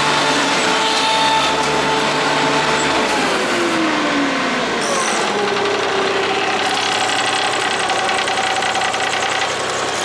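Kubota D1105 three-cylinder diesel of a MadVac ride-on vacuum sweeper running with its vacuum fan, steady at first, then falling in pitch about three to four seconds in and settling to a lower steady run.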